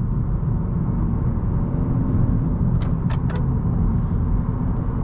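A 2018 Honda Accord's 1.5-litre turbocharged four-cylinder engine and CVT pulling the car along at speed, under a steady low rumble of tyres on the road. A faint engine tone drifts slightly in pitch, and a few short clicks come about three seconds in.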